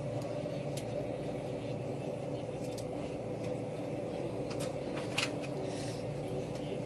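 Steady vehicle running noise, an engine hum with a few light clicks.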